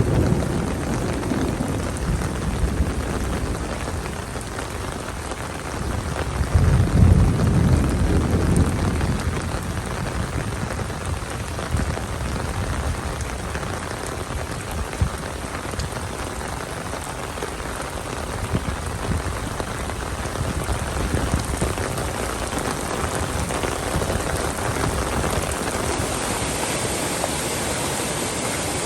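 Steady rain falling, a dense, even hiss of drops on surfaces. A low rumble swells and fades about a quarter of the way in.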